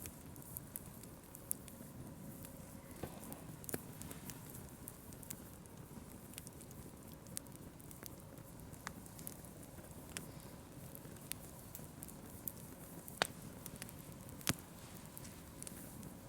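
Wood campfire crackling: scattered sharp pops over a faint low rumble, with two louder pops a little before the end.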